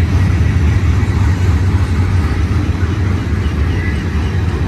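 Freight train running past, a loud steady low rumble.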